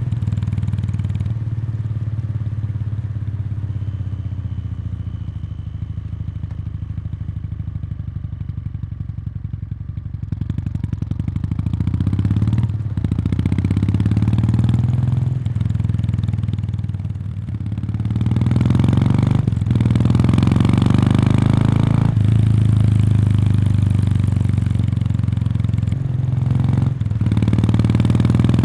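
Kawasaki Meguro K3's 773 cc air-cooled parallel twin running through its stock muffler, heard close to the exhaust outlet. The exhaust note falls and quietens over the first ten seconds or so. It then rises again, cut by several short breaks in the sound.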